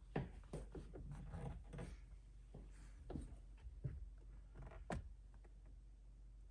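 Faint handling noises: scattered small clicks, taps and rustles of loose plastic trim parts being moved about, with a sharper click just after the start and another about five seconds in.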